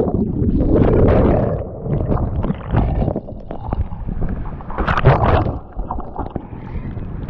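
Water splashing and sloshing around a sea kayak in uneven surges, with wind buffeting the microphone.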